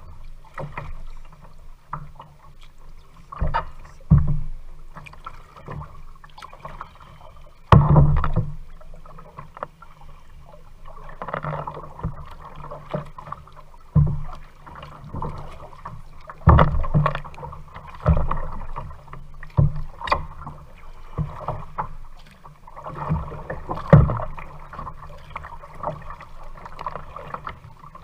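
Kayak being paddled on a lake: water noise from the paddle strokes with irregular sharp knocks, the loudest about 8, 16 and 24 seconds in.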